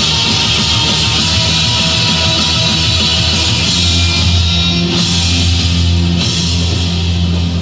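Heavy rock music with distorted electric guitar and drums.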